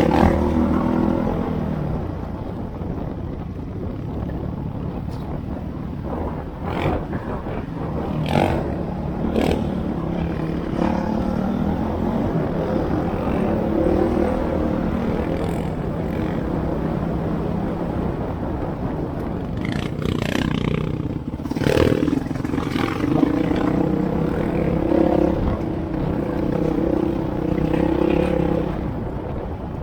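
An off-road trail vehicle's engine running steadily, its pitch shifting now and then, with scattered knocks and clatter from the rough trail.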